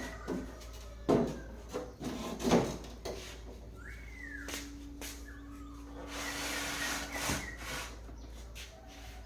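A few sharp knocks of objects being handled, about one and two and a half seconds in, then a short hiss, with a bird-like chirp in the background.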